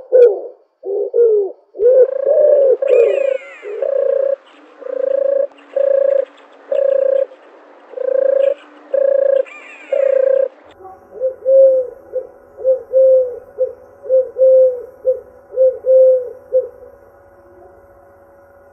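Dove cooing: a series of low, even coos at about one a second, then, after an abrupt change in the background about eleven seconds in, a quicker run of shorter coos that stops a couple of seconds before the end.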